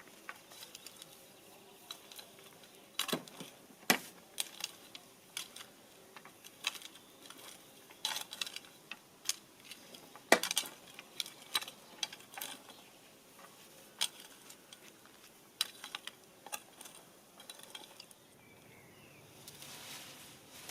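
Irregular light clicks and knocks of small hard objects being handled, a few louder taps among them.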